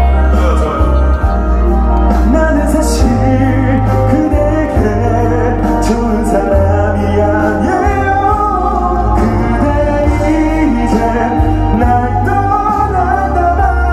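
Audience singing along to the chorus of a Korean pop ballad over its live musical accompaniment, with a steady bass underneath.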